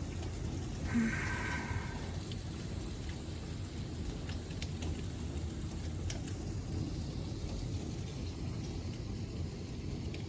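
Heavy rain falling steadily, with scattered sharp drop hits. A brief pitched sound about a second in.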